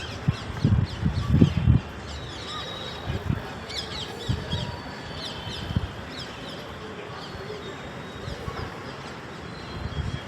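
Small birds chirping over and over in the background, with a run of dull low thuds in the first two seconds and a few more scattered later.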